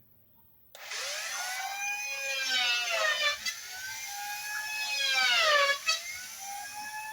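Handheld electric planer switched on about a second in, its motor spinning up to a high whine. The whine sags in pitch twice and recovers, as the cutter slows under load while planing a mahogany board.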